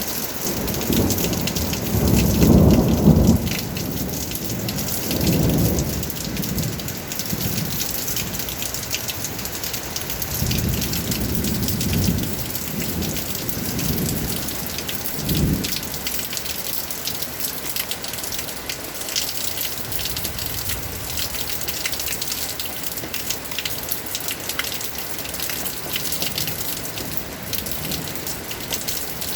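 Steady rain with a dense patter of drops hitting a surface. Several low rumbles come through in the first half, the loudest about two seconds in.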